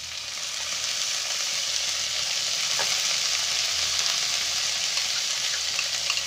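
Mixed vegetables frying in hot ghee in a kadai: a steady sizzling hiss that grows a little in the first second as grated carrot goes in. There are a few faint clicks of a spoon against a bowl near the end.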